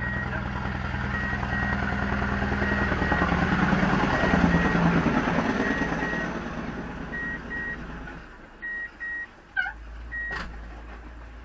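A vehicle engine running close by, swelling and then fading away. Pairs of short, high beeps at one steady pitch repeat throughout, in the pattern of a reversing alarm. Near the end there is a brief falling chirp.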